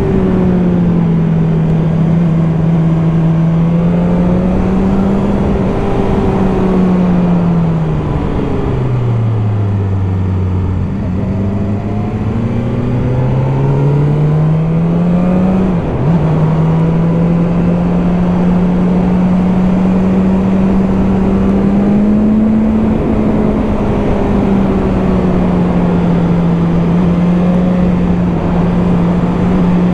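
Motorcycle engine running under way, with steady wind and road noise. The revs fall to a low point about ten seconds in and climb again. There is a brief dip about sixteen seconds in, after which the engine holds a steady pitch.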